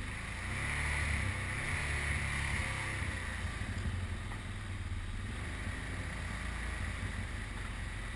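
Small off-road engine running at low revs, strongest in the first three seconds, over a steady hiss.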